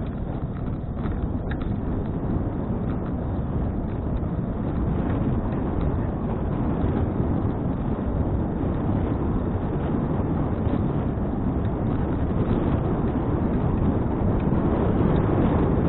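Wind rushing over an action camera's microphone on a moving bicycle: a steady low rumble that grows slightly louder toward the end.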